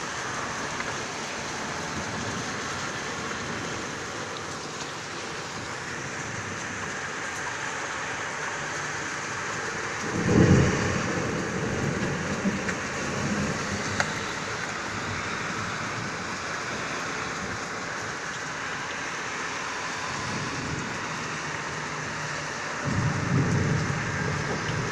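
Rain falling steadily in a thunderstorm, with two low rolls of thunder, one about ten seconds in and another near the end.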